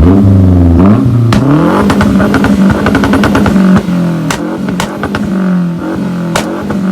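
A V8 engine revved hard again and again, its pitch climbing and falling, with several sharp exhaust pops and cracks among the revs.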